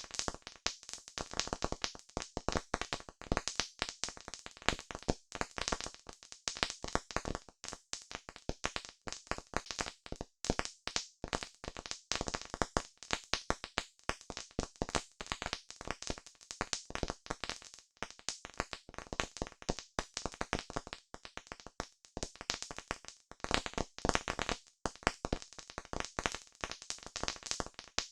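Wood campfire crackling: a dense, irregular stream of sharp snaps and pops.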